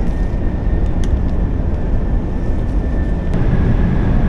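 Steady low rumble of a double-deck high-speed train running at speed, heard inside the car, with a faint high whine and a few light clicks.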